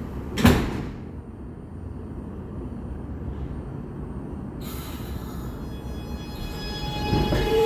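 An R211A subway train's doors shut with a loud thud, then the train stands with a steady low rumble. About halfway through a hiss sets in, and near the end its propulsion motors start to whine as it begins pulling out of the station.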